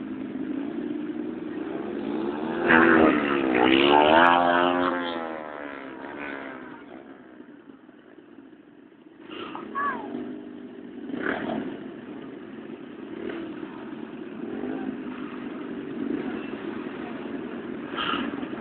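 Motorcycles revving and going by on a street, the loudest passing a few seconds in with its engine pitch swinging up and down; quieter engines follow after a brief lull.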